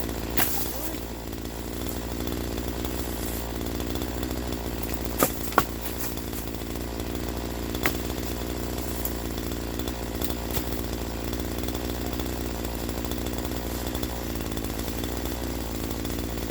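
Troy-Bilt TB4218 42cc two-stroke chainsaw running steadily, with a few short sharp knocks, one near the start and a close pair about five seconds in.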